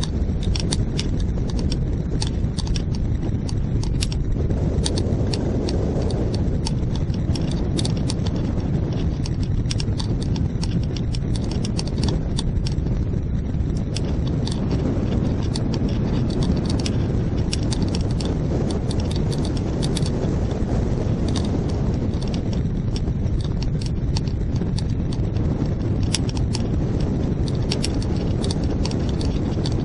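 Strong wind buffeting the microphone: a steady low rumble, with frequent sharp clicks throughout.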